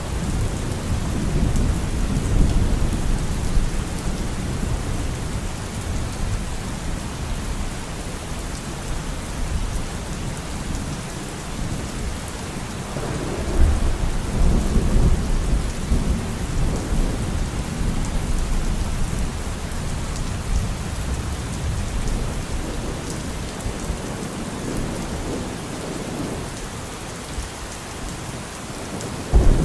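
Steady rain falling through a thunderstorm, with low rolling thunder that swells up about thirteen seconds in. A sudden louder rumble of thunder breaks in right at the end.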